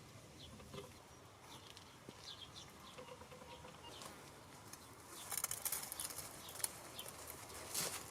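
Faint small-bird chirps, short falling notes repeated every second or so. About five seconds in comes a spell of sharp clicks and scrapes, with a louder one near the end.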